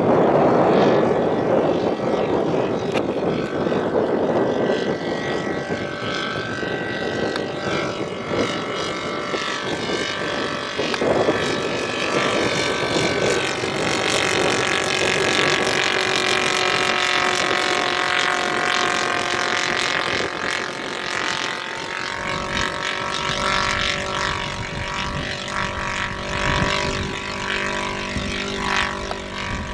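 Radio-controlled scale model aircraft's engine and propeller running in flight with a steady drone. The engine tone becomes clearer partway through.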